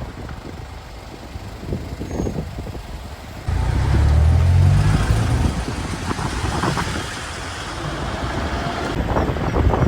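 Vehicle running on the move, a steady low engine rumble that turns suddenly louder and deeper about three and a half seconds in.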